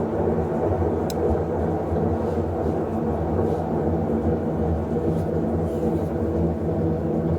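Electrolux LTE08 top-loading washing machine running with a steady motor hum and churning drone, the level even throughout.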